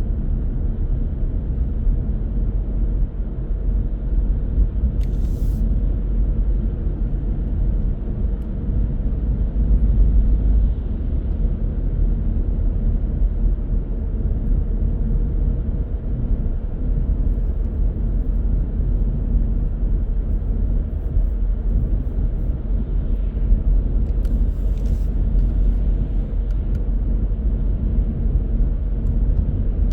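Car driving on city roads: a steady low rumble of tyres and engine. A brief click comes a few seconds in, and a few more about two thirds of the way through.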